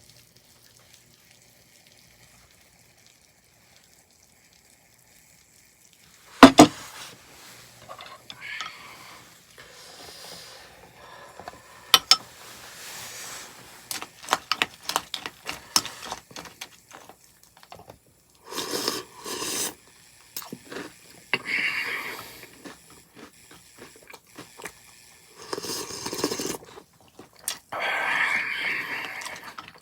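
Close to silent for the first few seconds, then a sharp knock. It is followed by spoon clicks and scrapes against a bowl and several short bursts of slurping and chewing as hot cereal soup is eaten.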